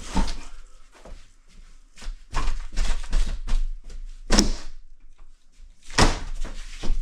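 A new door and frame being knocked and shuffled into the wall opening: a series of knocks and thumps with scraping between them, the two loudest about four and a half and six seconds in.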